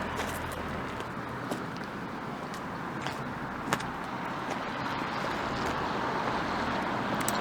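Steady vehicle noise with an even background rumble, a few faint clicks, and one sharp click about three and a half seconds in.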